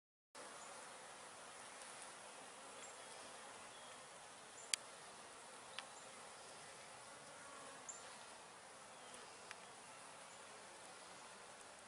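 Honeybees buzzing faintly at a hive entrance, a steady hum of many wings that begins abruptly about half a second in. A few sharp clicks cut through it, the loudest about five seconds in.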